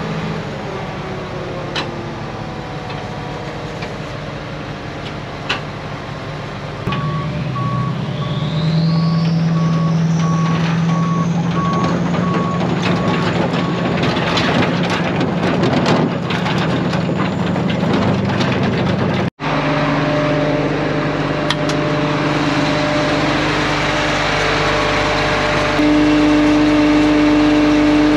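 Heavy truck engine running while it reverses, its backup alarm beeping in a steady series, with a brief rising whine partway through. After a sudden break about two-thirds of the way in, a steadier engine running with a louder hum.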